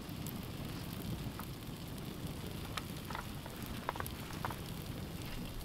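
Wood campfire crackling under a cooking grill, with a steady low rush and a handful of sharp, scattered pops.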